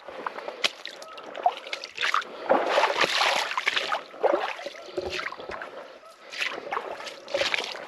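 Boots wading through shallow water, sloshing and splashing at each uneven step.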